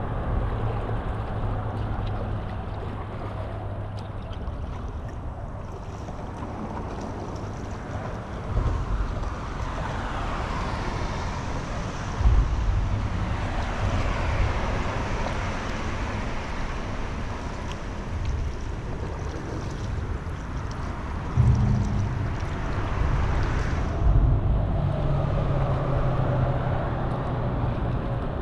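Paddling on a river: water swishing and rippling around the paddle and hull, with wind rumbling on the microphone and a few dull knocks.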